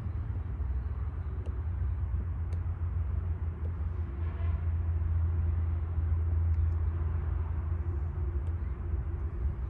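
A steady low rumble of outdoor noise, with a faint steady hum joining about four seconds in.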